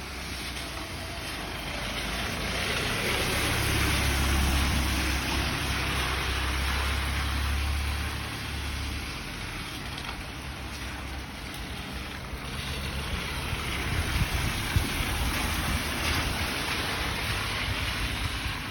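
Heavy rain falling as a steady hiss, with a low rumble that swells for several seconds a few seconds in and again later.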